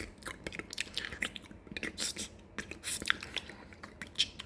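Close-miked ASMR mouth sounds: irregular wet clicks, smacks and pops, a few quick ones at a time.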